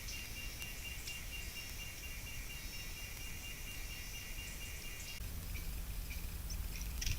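Insects trilling steadily over low microphone rumble on a trail camera. About five seconds in the background changes abruptly, and a few short high chirps and clicks follow.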